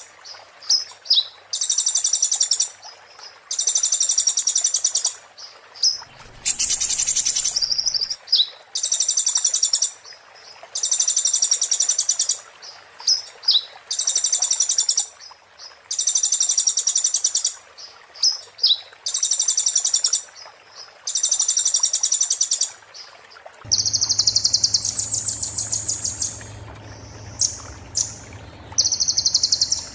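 Kolibri ninja (purple-throated sunbird) singing in the rapid 'muntah beling' style: repeated high-pitched, fast rattling phrases of about a second and a half each, separated by short gaps. A short burst of noise comes about six seconds in, and a low steady hum runs under the song near the end.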